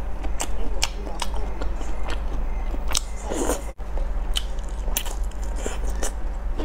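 Close-miked chewing and biting of food, with many short wet clicks and crunches.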